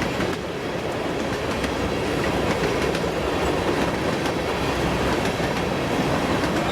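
A freight train of empty covered grain hoppers rolling past at track side: a steady rumble of steel wheels on rail, with scattered clicks from the wheels over rail joints.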